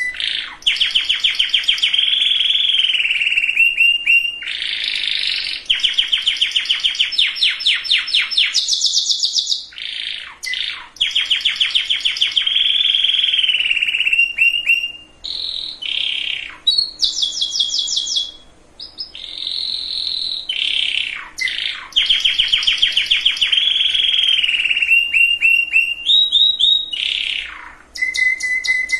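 Domestic canary singing a long, continuous song of rapid trills and rolls, the phrases switching every second or two, some sliding down in pitch, with only brief breaks between them.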